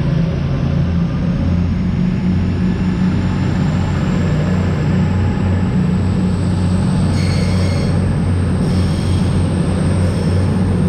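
Diesel-hauled freight train running through the station: a loud, steady low engine drone over rumbling wheel noise, with a faint high whine rising slowly in pitch.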